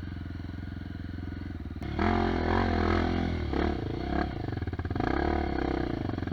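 Dirt bike engine running steadily, then louder from about two seconds in, its revs rising and falling repeatedly.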